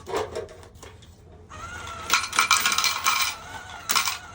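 Coins clattering, a rapid jingling run with a steady high whine under it, starting about a second and a half in.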